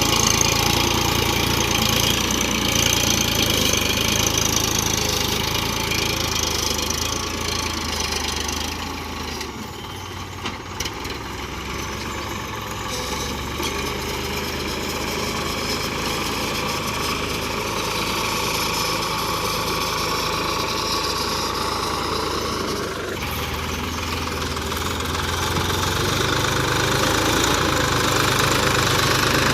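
A 47 hp tractor's diesel engine running while it pulls a reversible plough. The engine sound falls quieter for a few seconds about a third of the way in, then builds back up toward the end.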